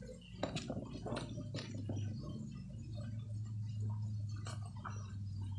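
Raw cucumber being bitten and chewed: several crisp crunches with wet chewing between them, over a steady low hum.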